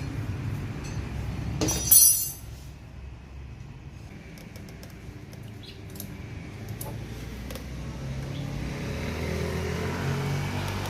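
Honda Wave 110i motorcycle engine running, with a short loud burst about two seconds in, after which it goes quiet and light metallic clicks and clinks of tools on the bike follow; a low hum builds again near the end.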